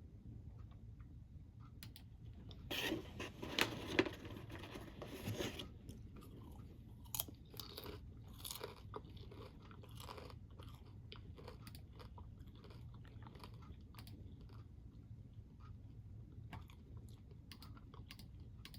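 A person biting and chewing a crunchy snack: a loud run of crunches about three to five and a half seconds in, then softer, scattered crunches and clicks as the chewing goes on.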